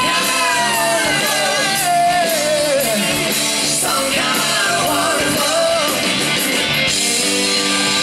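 Live rock band playing loudly, with a wordless wailing vocal line that slides down in pitch over the first few seconds. The high cymbal wash drops out near the end, leaving sustained held chords.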